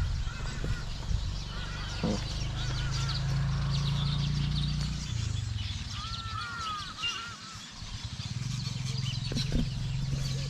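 A chorus of many birds calling from a swamp, with dense high chirps and repeated short arching whistled calls, a cluster of them about six seconds in. A steady low hum runs underneath, fading out in the middle and returning near the end.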